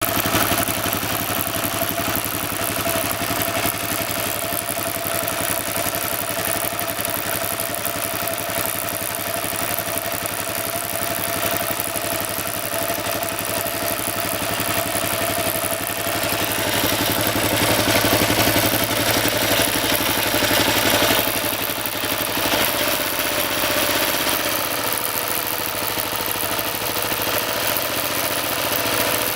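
Kawasaki KLR650 single-cylinder engine running with the drive chain turning, carrying a noise from the front sprocket. The sound grows noisier and a little louder for a few seconds past the middle. The front sprocket's teeth turned out to be worn jagged, which the owner puts down to an over-tightened chain.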